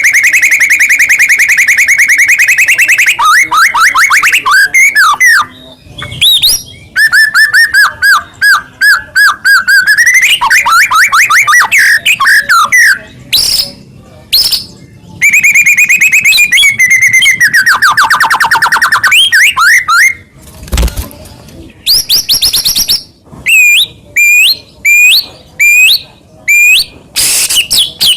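White-rumped shama (murai batu) singing loudly in long, varied phrases. It opens with a fast rattling trill on one pitch, then moves into swooping whistles and quick repeated notes. Near the end it gives a run of short, sharp upward-flicked notes.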